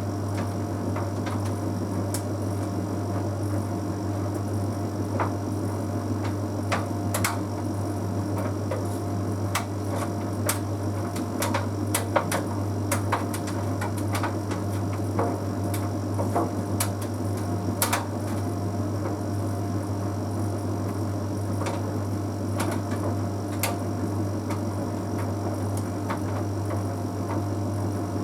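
Bosch Series 6 WQG245R9GB heat pump tumble dryer running mid-way through an Easy Care cycle set to Cupboard Dry Plus: a steady low hum, with irregular light clicks and ticks scattered through it as the drum turns.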